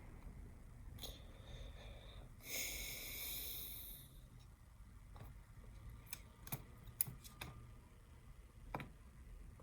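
Faint small clicks and taps of hand tools and small parts being handled while a smartphone is put back together, with a pitched hiss lasting over a second about two and a half seconds in.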